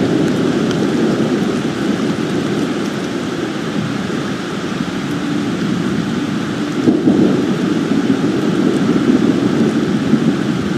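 Steady rain on an eagle nest, heard through the nest camera's microphone as a dense rush with scattered small drop ticks. It swells louder about seven seconds in.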